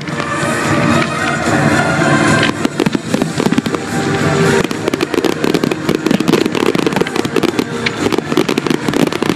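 Fireworks display going off: aerial shells bursting overhead in a dense run of bangs and crackles that thickens from about two and a half seconds in, with music playing underneath.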